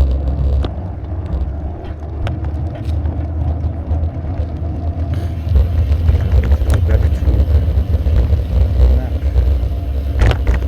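Low rumble and rattling vibration from a bicycle ridden over a rough road, picked up through the handlebar camera mount, with scattered knocks and a sharper knock near the end. The uploader blames the rattle on vibrating armrests or the DJI camera mount.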